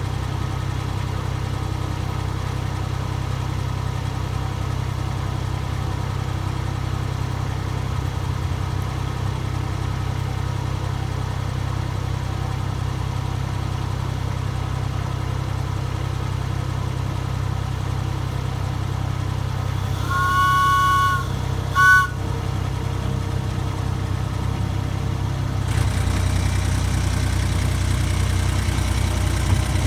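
Miniature railway locomotive's engine running steadily at idle, with a two-note horn sounded for about a second and then a short second toot. A few seconds later the engine gets louder, as if opened up to pull away.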